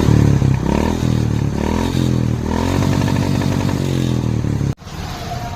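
Royal Enfield Bullet 350 single-cylinder four-stroke engine running and being revved, its pitch rising and falling. It cuts off abruptly near the end and a quieter sound takes over.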